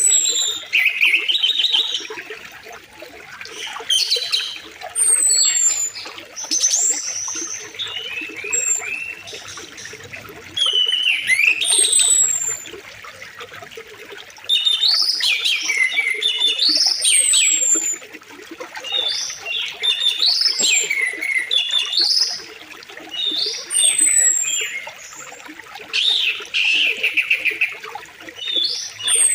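Songbirds singing in repeated chirping phrases every second or two, over a faint steady rush of flowing river water.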